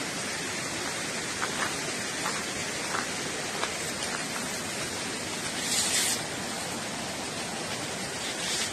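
A steady rushing hiss like flowing water, with a few faint crackles like a campfire in the first half and a brief, brighter hiss about six seconds in.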